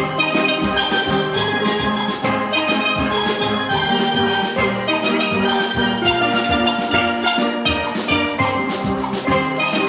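Steel orchestra playing: many steelpans striking ringing pitched notes together over a steady drum and percussion rhythm.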